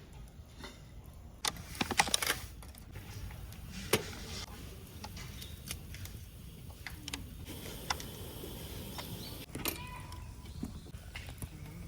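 Small clicks, clinks and rattles of objects being handled, with a loud cluster of clatter about two seconds in and single sharp knocks after it.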